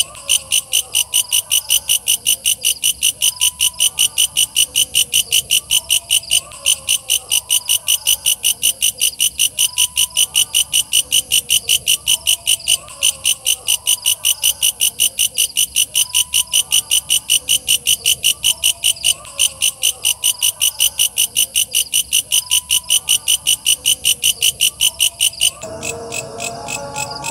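Walang kecek bush cricket calling in a loud, high, rapid train of even pulses, about four to five a second, with fainter warbling calls lower down. Near the end the pulsing changes abruptly and softens as a different sound comes in.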